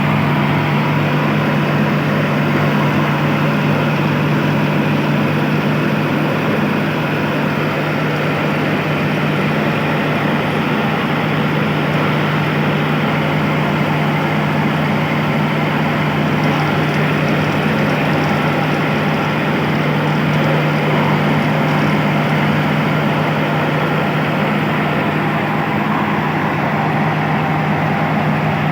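Kubota tractor engine running steadily at constant speed, driving a rice mill: a steady hum with dense mechanical noise from the machinery over it.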